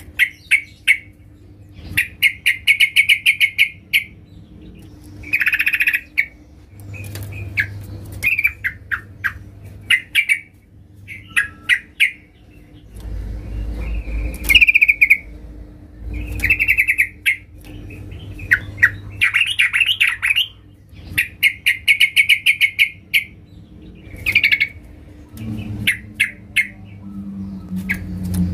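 Yellow-vented bulbul (trucukan) chattering: bursts of rapid, clicky notes, each lasting about a second, repeated every second or two. The title presents this as a female calling a male.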